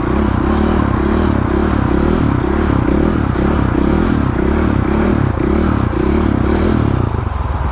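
450 four-stroke dirt bike engine running under throttle while riding, its note rising and falling in an even pulse about twice a second.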